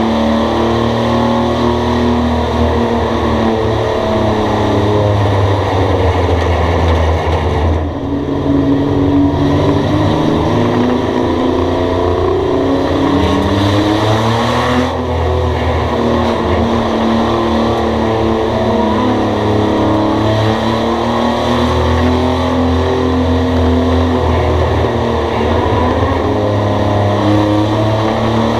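Race car engines running hard around a short oval, the engine pitch dipping briefly as the throttle is lifted, near 8 and 15 seconds in, and climbing again under acceleration.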